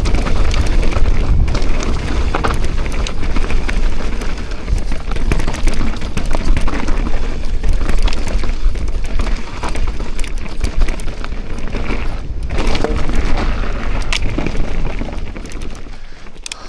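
Wind rumbling on the microphone with the rattle of a mountain bike riding fast down a rough trail, with many sharp clicks and knocks from the bike over the ground. It eases off near the end as the bike slows.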